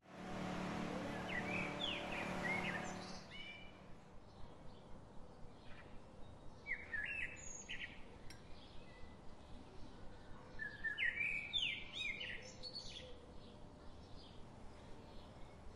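Birds chirping in scattered groups of short, high calls. For about the first three seconds they sit under a louder rushing noise with a steady low hum.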